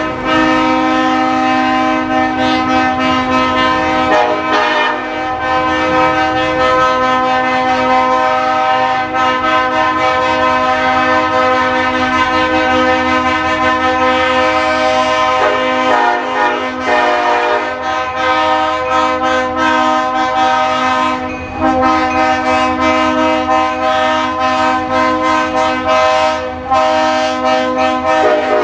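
Train air horn sounding long, near-continuous blasts, a steady chord of several notes broken only briefly a few times.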